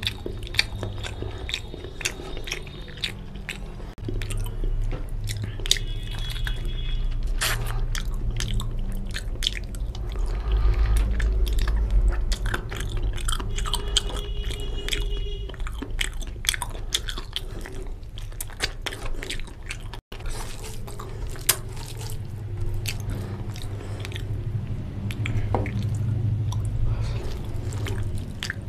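Close-miked chewing, biting and crunching as a man gnaws on a curried chicken leg bone, with many sharp wet mouth clicks and smacks, over a steady low hum.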